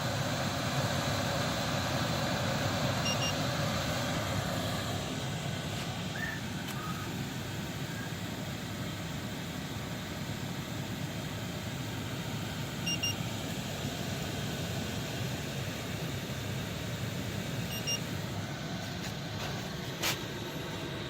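8 kW Chinese diesel air heater running: the steady whoosh of its combustion blower and burner. Short high electronic beeps sound three times, and a sharp click comes near the end.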